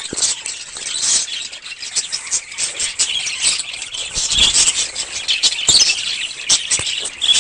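Birds chirping and squeaking: quick high-pitched calls, one after another, making a dense chatter.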